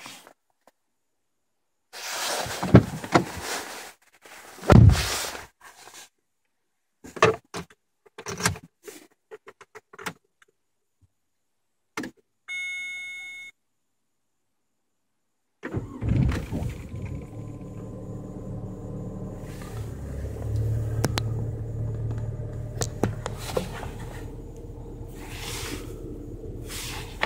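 A few clunks and clicks, a single dashboard warning beep, then the Opel Vectra C's engine starts about two-thirds of the way through and settles into a steady idle.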